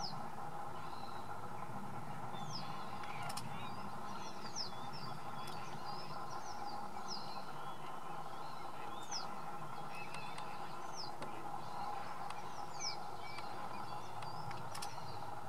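Small birds calling: short, high, falling notes scattered irregularly throughout, over a steady low hum. A couple of faint clicks are also heard.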